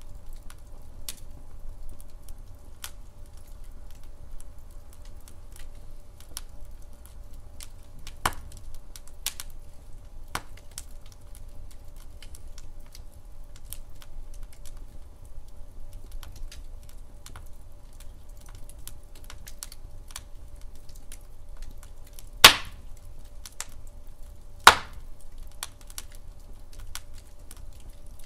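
Wood fire in a fireplace crackling: scattered small snaps and ticks over a faint low rumble, with two loud pops about two seconds apart in the last third.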